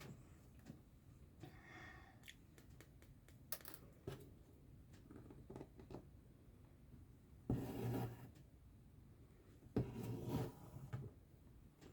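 Quiet cross-stitching sounds: scattered small ticks and taps of a needle on stretched fabric, and twice in the second half a scratchy rasp about a second long as the embroidery thread is drawn through the cloth.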